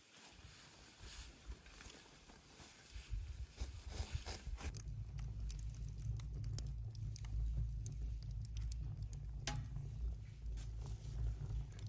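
Bonfire crackling with scattered sharp pops, over a low rumble that builds up a few seconds in.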